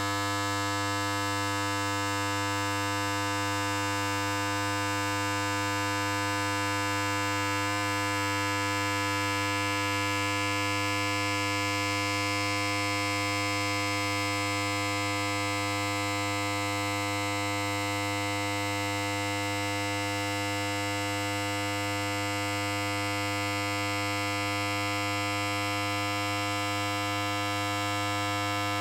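Electric hair clipper running continuously, a steady buzzing hum on one unchanging pitch with many overtones.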